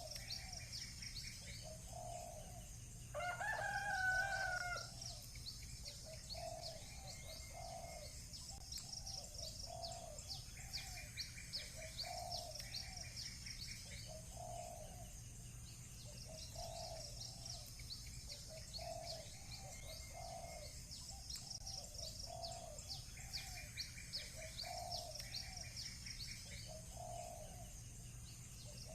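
A rooster crows once, about three seconds in, the loudest sound here. Behind it small birds chirp constantly, and a lower call repeats about once a second.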